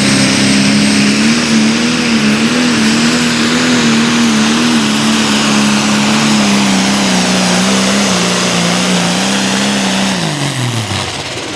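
Pro stock pulling tractor's turbocharged diesel engine running flat out under load down the track, its note wavering and slowly sagging. About ten seconds in the revs fall away steeply as the engine is throttled back at the end of the pull.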